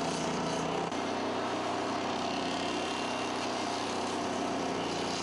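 Dingo mini loader's engine running steadily under load while driving the hydraulic stump grinder attachment, with a brief dip and change in its note about a second in.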